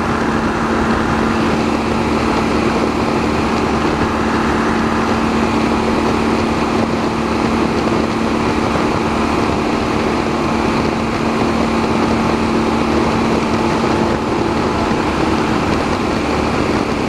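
Motorcycle cruising at a steady highway speed: a constant rush of wind noise over a steady engine drone.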